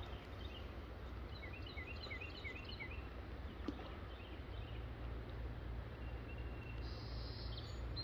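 A small bird chirping in quick runs of short, high, downward-sliding notes during the first few seconds, over a steady low background rumble of outdoor ambience.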